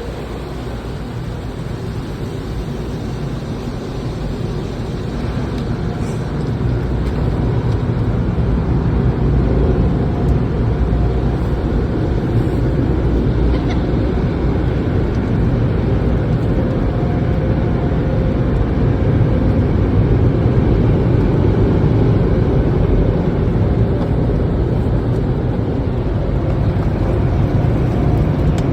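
Steady, loud noise of car wash machinery, building up over the first several seconds and then holding.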